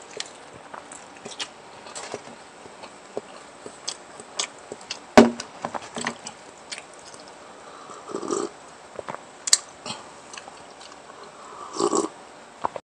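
A person eating close to the microphone: chewing and lip smacks with many small clicks, a sharp click about five seconds in, and two fuller bursts of mouth noise later on. The sound cuts off suddenly near the end.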